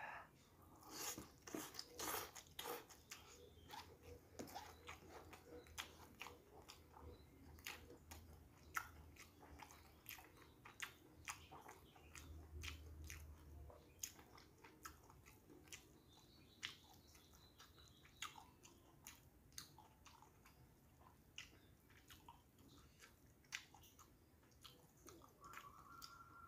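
A person eating noodles, rice and fried fish by hand: chewing and biting with many short mouth clicks.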